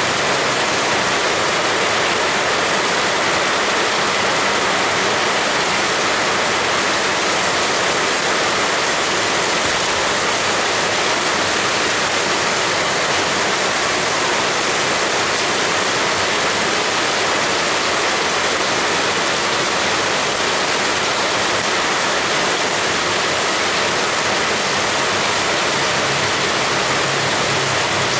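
Heavy rain falling steadily as an even, dense hiss with no breaks. A faint low hum comes in near the end.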